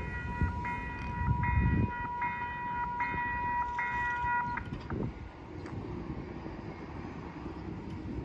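Railroad crossing bell ringing about one and a half strokes a second over a steady tone as a South Shore Line electric passenger train runs through the crossing with a low rumble. The bell stops a little over halfway through, and the train's running noise goes on.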